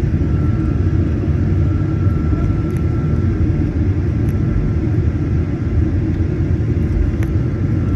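Boeing 737-900ER heard from inside the cabin: a steady low rumble of engines and airflow with a faint steady high whine.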